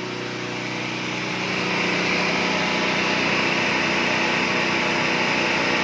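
Car engine revved up and held at high revs, about 4,000 rpm and near the redline, rising over the first two seconds and then running steady.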